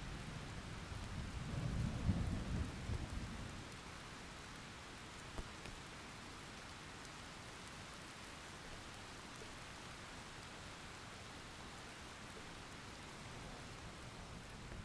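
Thunderstorm: steady rain, with a low rumble of thunder swelling and fading over the first three seconds or so. After that the rain goes on evenly on its own.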